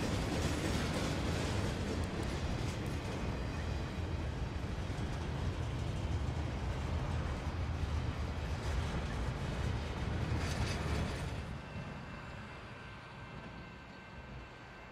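Train rolling past with a steady rumble of wheels on rail, which fades away from about eleven seconds in as it moves off.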